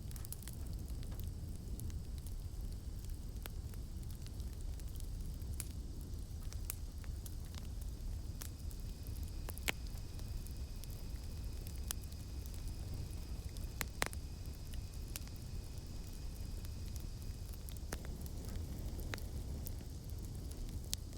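Campfire crackling: a steady low rumble of flames with scattered sharp pops, two of them louder about ten and fourteen seconds in. Behind it, a faint steady high-pitched cicada drone.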